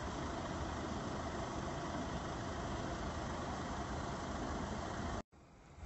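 A vehicle engine idling steadily, breaking off suddenly about five seconds in.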